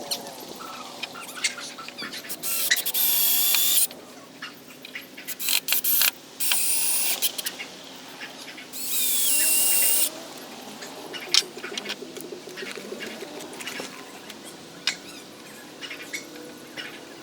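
A power drill running in three short bursts, a second or so each, with a whine that shifts in pitch, as the metal stops are screwed onto the wooden ramp; sharp clicks and knocks of handling in between.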